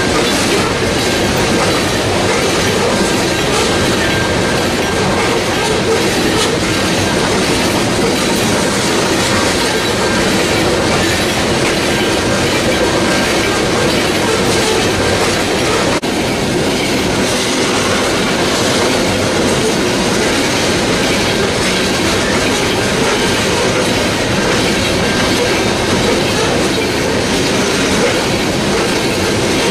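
Loaded coal hopper cars of a freight train rolling past, a steady loud clatter of steel wheels over rail joints.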